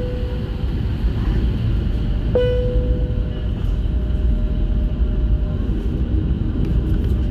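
Steady low rumble of an Airbus A320, heard from inside the passenger cabin. A brief pitched tone sounds suddenly about two and a half seconds in and fades over a second or so.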